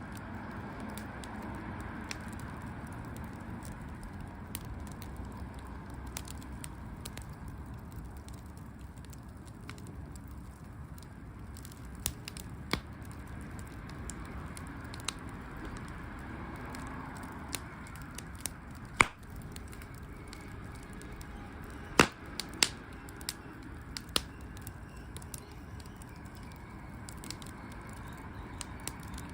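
Wood fire crackling in a fireplace: a steady low rush of burning with scattered sharp pops, two of them much louder, about two-thirds and three-quarters of the way through.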